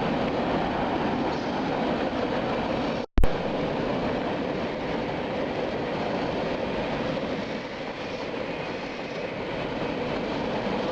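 Freight train cars rolling past steadily, steel wheels on rail. About three seconds in the sound drops out completely for an instant and comes back with a sharp click, a break in the recording.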